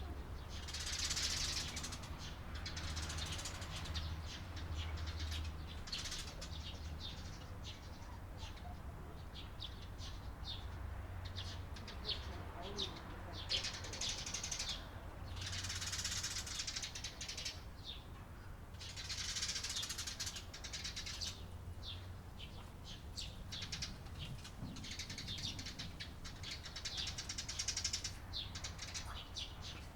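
Eurasian tree sparrows chirping: a steady run of short, high chirps, thickening several times into dense overlapping chatter from many birds.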